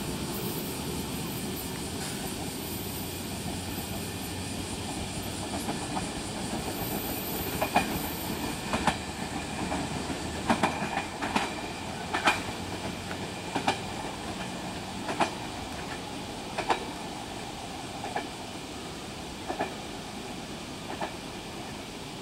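JR West 115 series electric train pulling away and receding, with a steady low rumble at first. From about a third of the way in its wheels clack over rail joints and points in sharp clicks roughly once a second, growing fainter as it goes.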